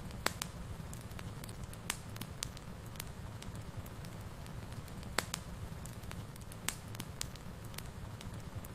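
Fire burning in a fireplace: a steady low rumble with sharp crackles and pops at irregular moments, the strongest about a quarter second in and about five seconds in.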